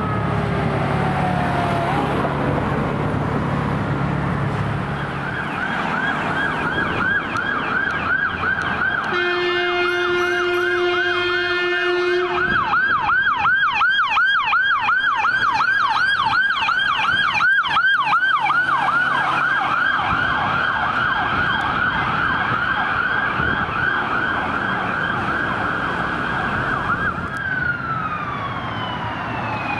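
Emergency vehicle siren going by on a response: a rapidly repeating yelp that speeds up partway through, with a long steady horn blast over it for about three seconds near the middle. Near the end the siren switches to a slow wail that falls and then rises again, over a low engine rumble.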